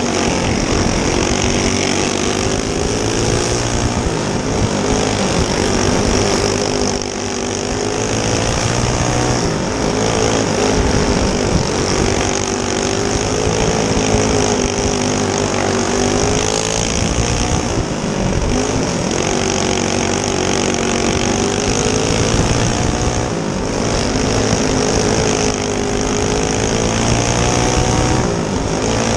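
Small single-cylinder four-stroke go-kart engines racing on a dirt oval, the revs repeatedly rising on the straights and falling into the turns.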